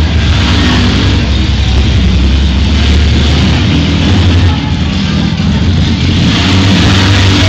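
Several minivan engines revving hard at full load as the vans shove and grind against each other, a loud, continuous rumble.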